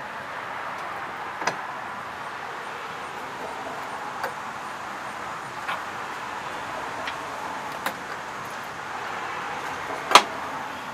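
Clicks and light knocks of hand tools and small parts being handled while working on a lawnmower's fuel line, about six in all at uneven spacing, the loudest near the end, over a steady background hiss.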